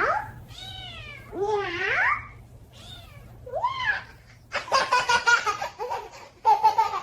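A domestic cat meows four or five times in a row, each meow bending up and down in pitch. About halfway through, a baby starts laughing in quick repeated bursts.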